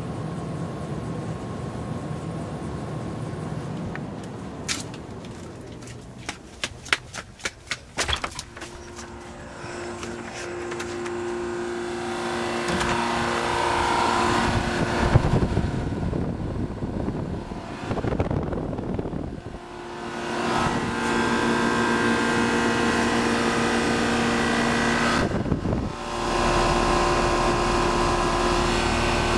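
Comfortmaker 2-ton central air-conditioner outdoor units running: Copeland reciprocating compressors and condenser fans give a steady hum with held tones. A quick run of sharp clicks comes a few seconds in.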